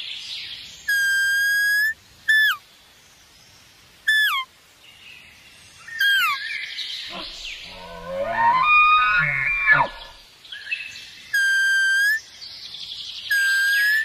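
Whistled bird calls: held whistled notes about a second long alternate with short downward-sliding whistles, and a warbling, rising call runs through the middle.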